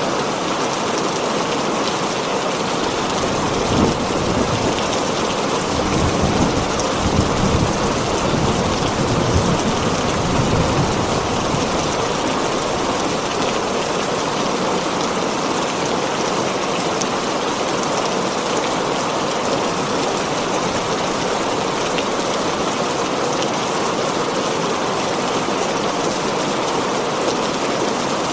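Heavy rain drumming steadily on a tin roof, with a low rumble of thunder rolling from about four to eleven seconds in.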